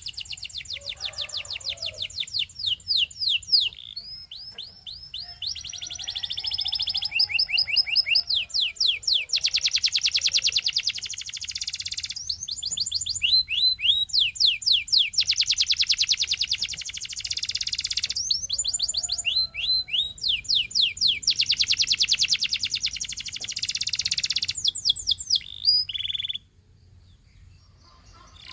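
Canary singing in long, rapid trills of fast-repeated high notes, phrase after phrase with brief breaks between them. It stops about two seconds before the end.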